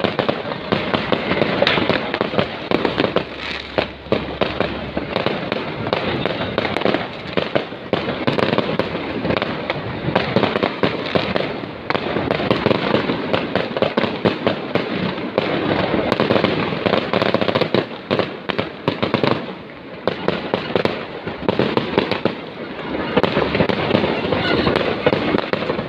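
Fireworks going off in a dense, continuous barrage of overlapping bangs and crackles, easing briefly twice in the last third.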